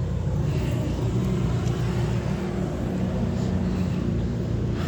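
Steady low rumble of a motor vehicle engine running, without any change in speed.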